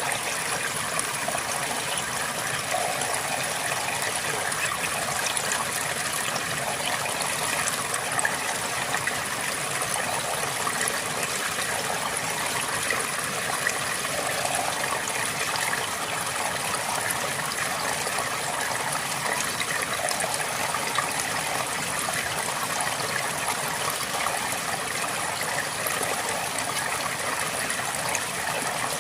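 River water flowing steadily over stones, a constant rushing and babbling with small splashes.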